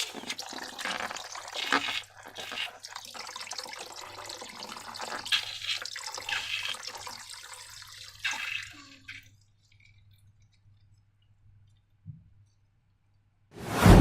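Sticky slime squelching and crackling wetly as it is squeezed and worked, for about nine seconds. Then it falls quiet, and just before the end a loud, low, wet burst begins.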